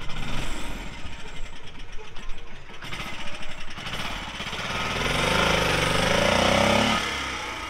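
Car engine running with a rapid pulsing beat, then revving up from about four seconds in, the pitch climbing and the sound getting louder before it falls away near the end.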